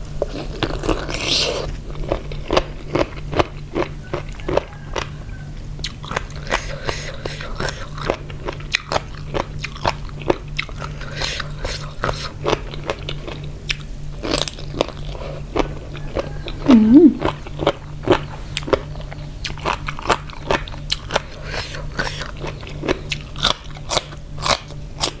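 Close-up crunchy chewing and biting of spicy pickled seafood salad with pickled jellyfish and shrimp, a steady run of sharp crunches a few times a second. About two-thirds of the way in there is one brief, louder low-pitched sound.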